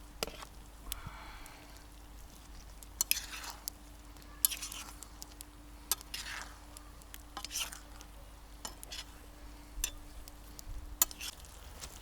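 A utensil stirring and scraping food in a metal frying pan, a scraping stroke about every one and a half seconds, with light clicks of metal on the pan.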